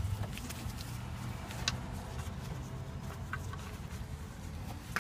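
A few faint, light clicks over a low, steady hum: the oil drain bolt being handled and threaded back into the oil pan by hand.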